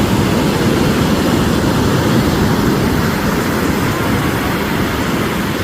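Jet ski running at speed: a steady engine drone under heavy wind rush on the microphone.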